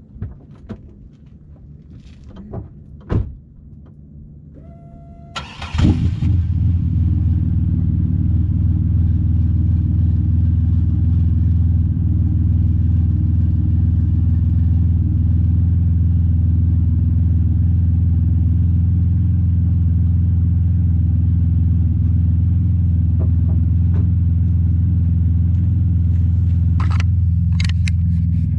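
A 2003 Chevrolet Impala's V6 is started warm: a few knocks, then it cranks and catches about five and a half seconds in and settles into a steady idle. The exhaust is freshly repaired with a new pipe section and no longer leaking.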